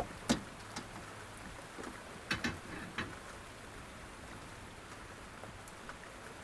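Steady heavy rain drumming on the car body, heard from inside the cabin, with a few light clicks and knocks in the first three seconds.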